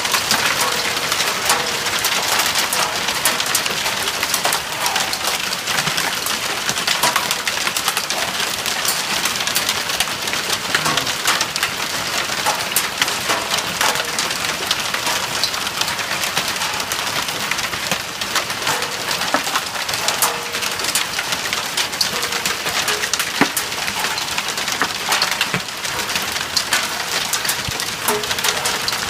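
Hail falling steadily: a dense hiss of stones coming down, with many sharp clicks of single hailstones striking throughout.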